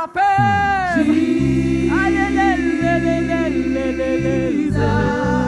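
Church worship song: voices holding long sung notes with sliding pitches over a steady band accompaniment whose low chords change every second or two.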